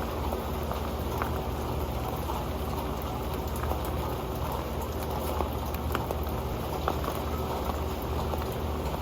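Rain falling on an old pan: a steady dense hiss of rain with many small sharp ticks of drops striking the metal.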